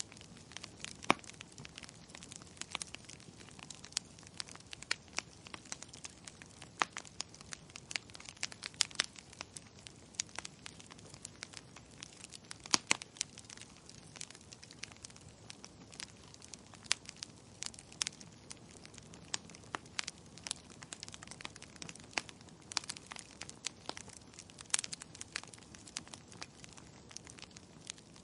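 Wood fire burning in a fireplace, crackling and popping irregularly over a soft steady hiss of the flames, with a few louder pops.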